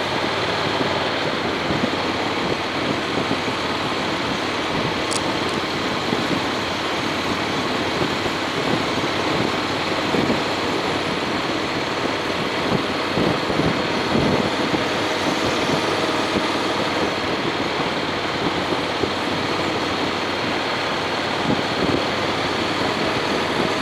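Honda X-ADV's parallel-twin engine running steadily while riding, mixed with a constant rush of wind and road noise. A single short tick is heard about five seconds in.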